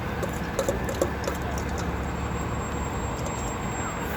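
Steady city street traffic noise, with a few light clicks about a second in.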